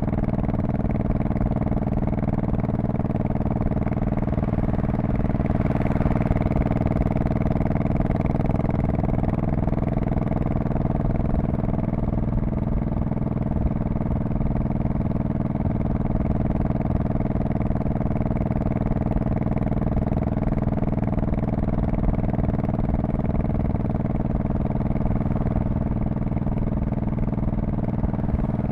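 Honda Shadow Spirit VT1100C's V-twin running steadily through its exhaust, with a brief swell in engine sound about six seconds in.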